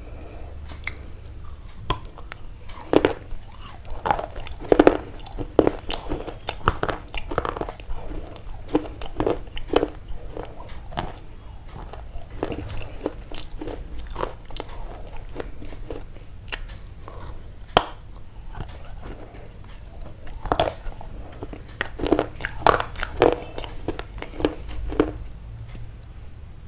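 Close-up eating sounds: irregular crunchy bites and chewing, in clusters with short lulls between.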